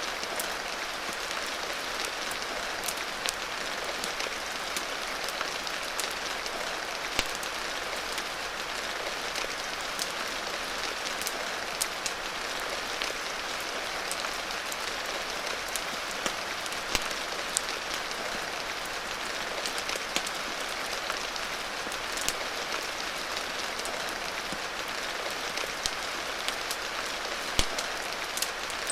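Steady rain hiss, with scattered sharp pops and clicks throughout.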